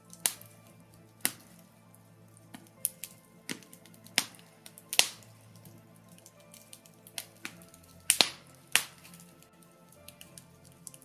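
Birch logs burning in a fireplace, crackling with sharp, irregular pops about one or two a second, some in quick pairs. Faint steady low tones run underneath.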